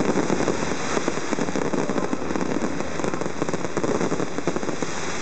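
Fireworks crackling: a dense, continuous spray of many tiny pops from glittering crackle stars and rising fountain jets, keeping an even level throughout.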